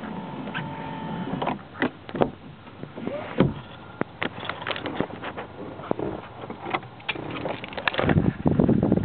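Electric sunroof motor of a 1994 Volkswagen Jetta running in short spells, with clicks and knocks between them and a louder low rumble near the end. The sunroof is misbehaving and moving on its own.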